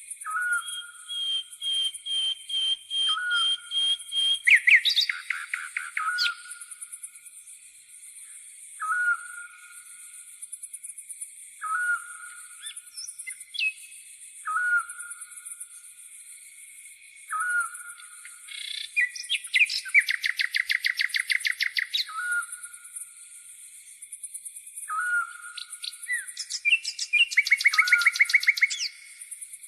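Steady high-pitched grasshopper chirring under birdsong. A short whistled note repeats every two to three seconds. Rapid trilled phrases come in a few seconds in, around the middle and near the end.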